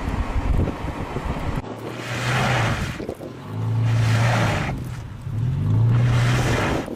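Wind buffeting the microphone, then a motor revving in three surges about two seconds apart, each a low hum with a hiss over it.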